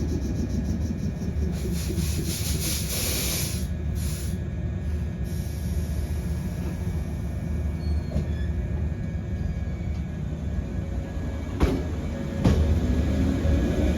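113-series electric train at the platform, running with a steady low rumble. A burst of air hiss comes about two seconds in, and a couple of sharp knocks near the end.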